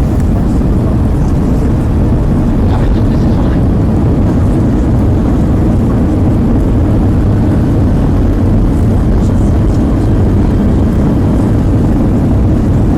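Loud, steady rumble of an Airbus A320 heard from inside the cabin: engine and airflow noise, mostly low-pitched.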